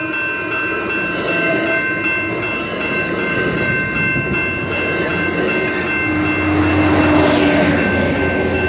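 Commuter train passing close by at a level crossing, with the steady rumble and clatter of its cars on the rails. The crossing's warning bells ring steadily underneath, and a deeper low rumble grows about six seconds in.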